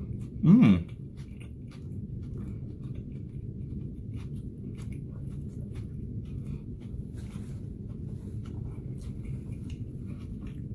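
A person chewing a mouthful of grilled chicken sandwich, with soft wet mouth clicks over a steady low hum. About half a second in, a short hummed 'mm' that bends up and down in pitch, the loudest sound here.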